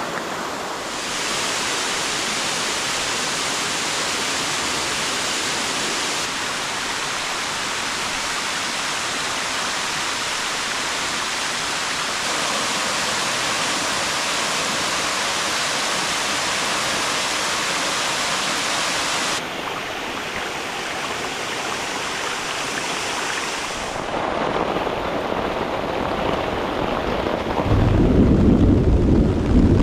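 Steady, dense rushing of falling water, changing abruptly in tone several times. A deep rumble comes in during the last two seconds and is the loudest sound.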